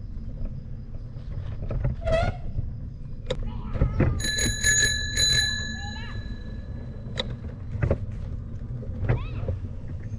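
Bicycle bell rung about four times in quick succession about four seconds in, its ring fading over the next second or so, over a low steady rumble from the moving bike.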